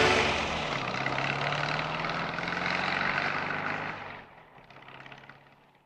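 Garbage truck engine running with a steady low hum and noisy rumble, dying away about four seconds in and fading out.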